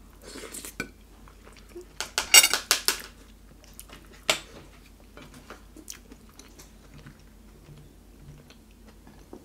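Close-up mouth sounds of eating masala dosa with sambar by hand: chewing and wet lip smacks, with a quick run of loud smacks about two seconds in and a sharp one just after four seconds. Later come a few light clicks of tableware.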